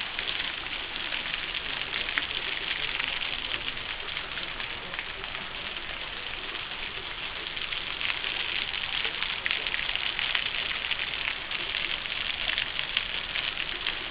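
A small waterfall splashing onto rock and pool: a steady hiss of spatter with fine crackles in it, growing slightly louder about eight seconds in.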